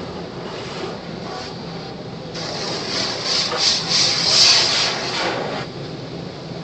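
Automatic car wash heard from inside the car: a steady mechanical rumble, with a louder scrubbing, hissing pass over the car from about two seconds in that surges for about three seconds and then drops back.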